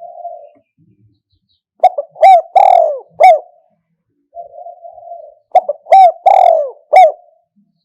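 Spotted dove cooing in two phrases of about four loud coos each, every coo dipping in pitch. Each phrase is led in by a soft, low purring note. It is the call used as a lure recording to draw wild doves.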